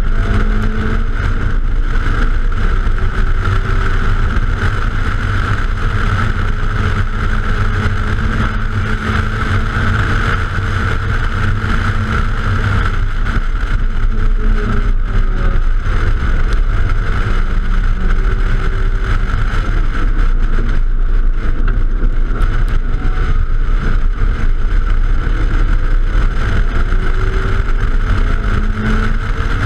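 A car engine pulling hard at track speed, its note climbing and dropping every few seconds as it runs through the gears, heard from a camera outside the car under a steady rush of wind noise.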